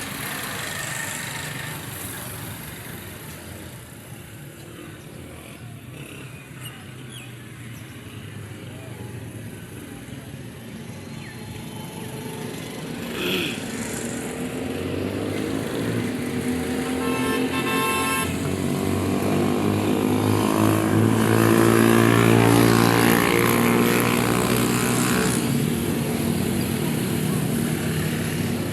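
Massey Ferguson 135 tractor engine running and drawing closer, growing louder to its loudest about three-quarters of the way through, then easing off a little.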